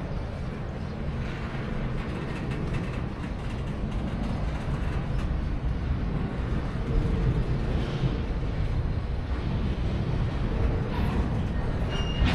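A train running on the tracks: a steady low rumble with no distinct breaks or impacts.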